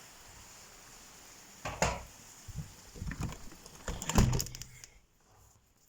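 A window being pulled shut against a hailstorm: a few knocks and rattles of the frame and handle, a firmer thud a little past four seconds in, and the steady hiss of hail outside cuts out almost to nothing once it is closed.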